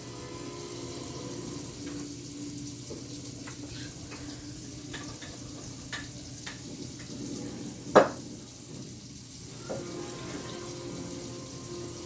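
Steady background hiss with a low hum, broken by several faint clicks and one sharp, loud click about eight seconds in.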